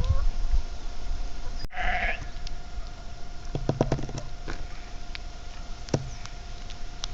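Farm animal calls: a short, bleat-like call about four seconds in and a brief one near six seconds, with short high chirps scattered throughout.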